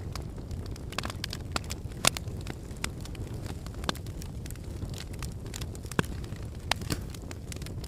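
Wood fire burning in a fireplace: a steady low rumble of flames with irregular sharp crackles and pops of burning logs, the loudest pops about two and six seconds in.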